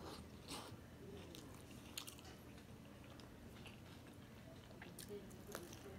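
Faint chewing and wet mouth sounds of a man eating rice and curry with his fingers, with a few short sharp clicks.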